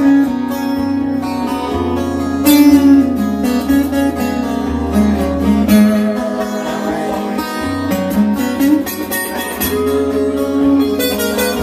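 Guitar music: an instrumental passage with no singing, notes held and changing over a steady low line.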